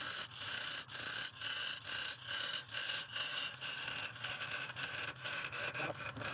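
Turning tool scraping wood on a spinning lathe, in repeated strokes that break off about twice a second.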